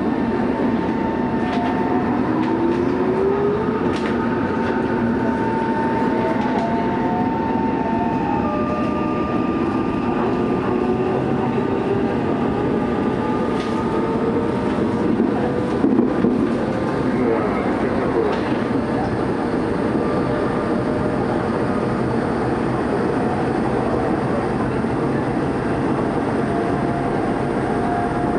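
Tokyo Metro 03 series electric train running, heard from inside the passenger car: steady wheel-on-rail rumble with the whine of its four-quadrant chopper control and traction motors, several tones rising slowly in pitch as the train gathers speed. A few short clicks sound about halfway through.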